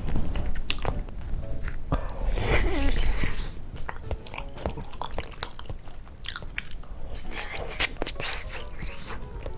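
Biting into and chewing a large, firm homemade kyoho grape jelly held in the hand, close to the microphone, with many small wet clicks; louder for a second or so about two seconds in.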